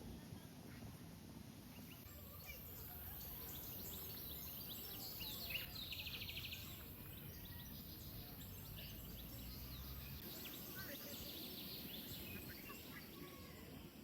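Small birds chirping, with a quick trill about six seconds in, over a low steady outdoor rumble and a faint high steady hiss.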